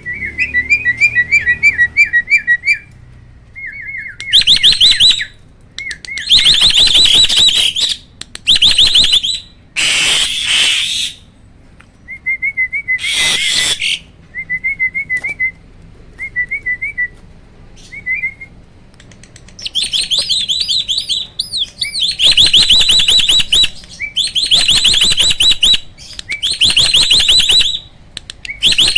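Hybrid starling, a cross of Asian pied starling and black-winged myna, singing loudly: quick rolling trills of repeated notes alternate with loud, harsh chattering phrases in bouts separated by short pauses.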